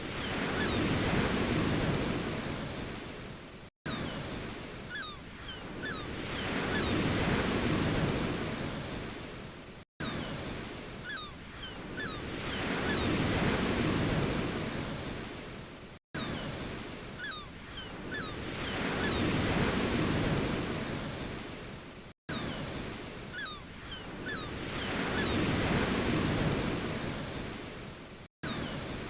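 Ocean waves breaking and washing in, each wave swelling and fading over about six seconds. Between waves the sound drops out to silence for an instant, five times, and the same stretch repeats identically each time: a short wave recording played in a loop.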